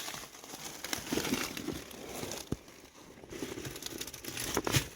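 Irregular rustling and crinkling as old wiring and trim are handled and moved around in a junked car, with a couple of sharp clicks, one about halfway through and one near the end.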